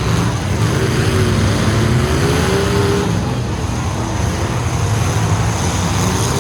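Full-size truck engines running loudly in a demolition derby, their pitch rising and falling as they rev.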